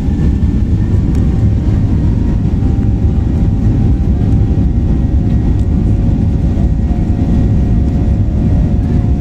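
Airliner's engines and rushing air heard inside the passenger cabin, a loud steady rumble with a faint steady whine over it, as the plane climbs shortly after takeoff.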